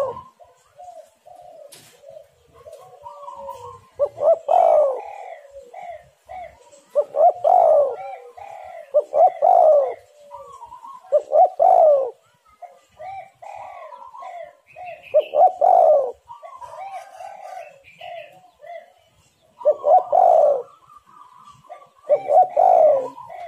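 Spotted doves (tekukur) cooing repeatedly: loud coo phrases every two to three seconds, with softer overlapping coos and faint higher chirps in between.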